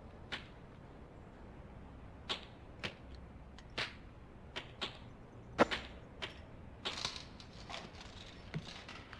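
Silenced gunshots in the movie soundtrack: about a dozen muffled, sharp cracks and impacts at irregular intervals, the loudest about halfway through and a quick cluster a little later.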